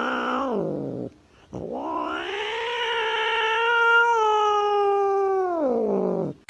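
A cat yowling: two long drawn-out yowls, the first about a second long and the second held for several seconds, each sliding down in pitch at its end.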